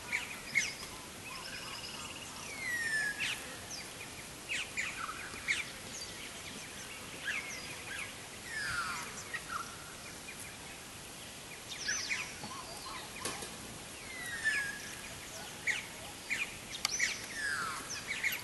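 Several wild birds calling: a scattering of quick chirps and sharp downward-sweeping whistles, over a steady background hiss.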